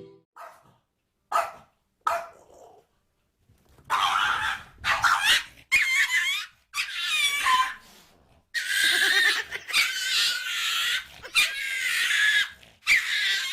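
A pet animal crying over and over, a run of drawn-out, wavering, high-pitched calls from about four seconds in, after a few short sounds at the start.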